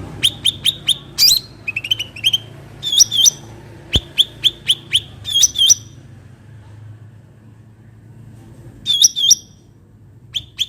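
Cucak ranting songbird calling: quick runs of sharp, high notes, each dropping steeply in pitch, come thick for about six seconds, then after a pause two short bursts come near the end. A faint low hum runs underneath, with a single click about four seconds in.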